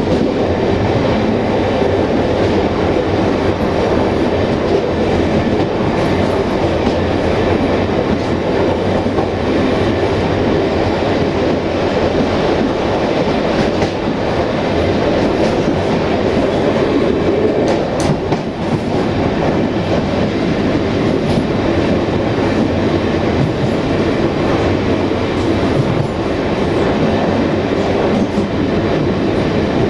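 Railway passenger coach rolling along the track: a steady noise of wheels running on the rails, with a brief dip about two-thirds of the way through.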